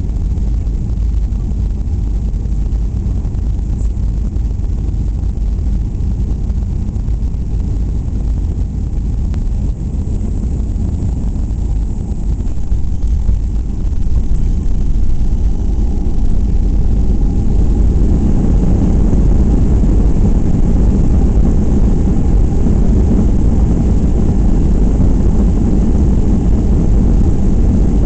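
Steady low rumble inside the cabin of a Boeing 737-800 from its CFM56-7B turbofan engines and the airflow, heard during the landing. It grows louder about halfway through and stays louder to the end.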